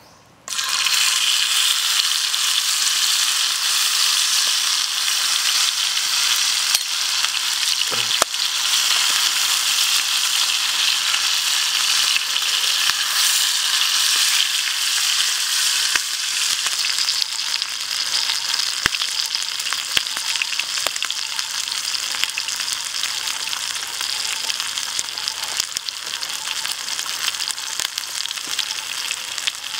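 Chicken wing dropped into hot oil in a frying pan, setting off a sudden loud sizzle about half a second in. The frying goes on steadily, easing slightly in the second half, with a few sharp clicks as chopsticks turn the wing.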